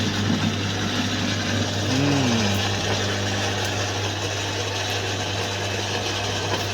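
Modified electric garden shredder grinding fruit, its motor running steadily with a strong even hum under a constant churning noise.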